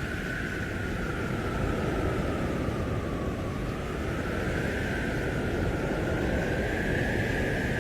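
Blizzard wind howling: a steady, heavy rush of storm wind with a whistling tone on top that slowly rises and falls.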